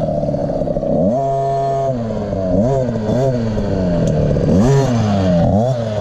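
2017 KTM 50 SX's 50cc two-stroke engine revving up and down again and again as the throttle is opened and shut. About a second in, the revs hold steady for a moment.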